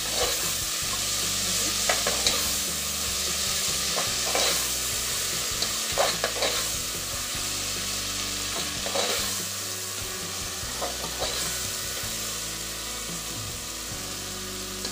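Chopped onions and tomatoes sizzling in hot oil in a pressure cooker, stirred with a metal ladle that scrapes and knocks against the pot every second or two.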